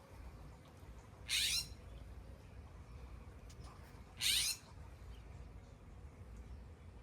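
Bird call: a short, high note that falls steeply in pitch, heard twice about three seconds apart, over a faint low background rumble.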